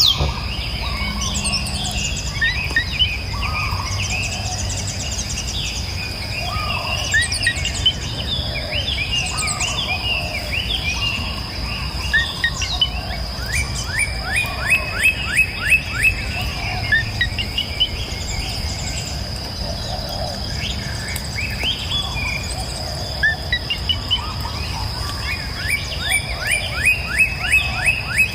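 Several songbirds singing and chirping, one of them repeating a fast run of sharp notes a few times, over a steady high-pitched tone and a low, even rush of river water.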